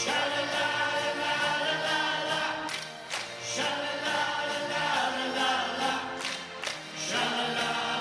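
A choir singing held chords over musical accompaniment, with a few sharp hits.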